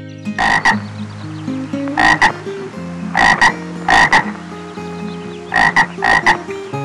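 A frog croaking: about six short calls, most of them two quick notes in a row, spaced roughly a second apart.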